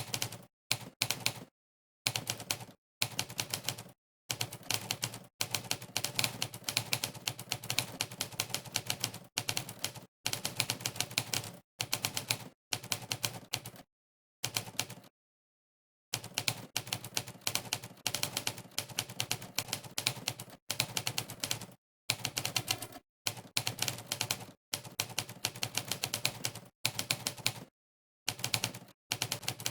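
Monkeytype's "typewriter" keystroke sound effect, a typewriter key-strike sample played for each key pressed during fast typing: rapid runs of clacks broken by short pauses, the longest about a second and a half just before halfway.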